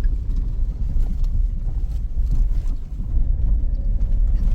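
Steady low rumble of a Suzuki Jimny's engine and tyres as it drives through a shallow stream crossing.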